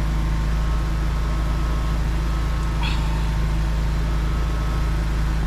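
A motor running steadily as a low, even drone, like an engine at idle. About three seconds in there is one brief high call that rises and then falls.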